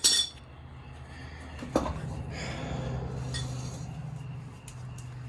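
A sharp, ringing metal-on-metal clink, then a duller knock a little under two seconds later, over a low steady hum.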